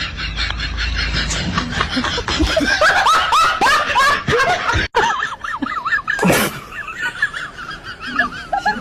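Laughter in quick repeated bursts, with a short noisy burst about six seconds in.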